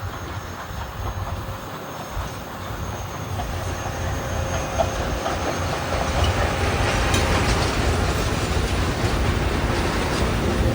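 Train rolling past, its low rumble growing louder from about three seconds in and then holding steady, with faint wheel squeal.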